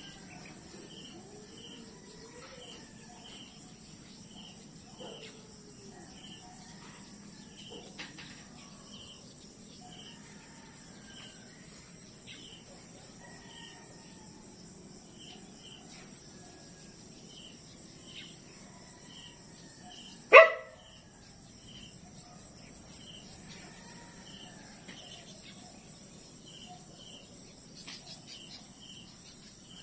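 Outdoor nature ambience. Crickets chirp in regular pairs over a steady high insect drone, with faint scattered animal or bird calls. About twenty seconds in comes one sudden, loud, short cry.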